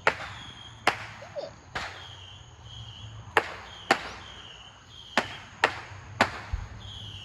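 Distant fireworks going off: about eight sharp bangs at irregular intervals, each with a short echo.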